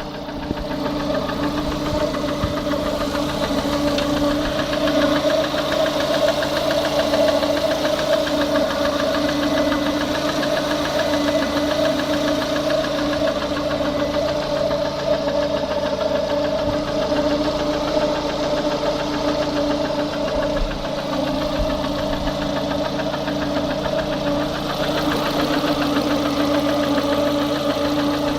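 Lada Kalina's engine running steadily with a rapid knock in it, the fault the recording is made to capture.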